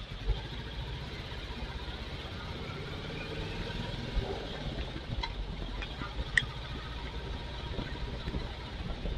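Royal Enfield Classic 350's single-cylinder engine running steadily with a low rumble, heard from the motorcycle, with a few short sharp clicks a little past halfway through.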